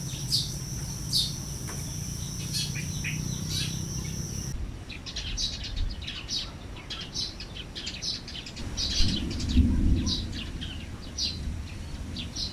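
Birds chirping in many short, repeated calls. A steady high tone runs under the first few seconds and cuts off suddenly, and a low rumble swells briefly just before the ten-second mark.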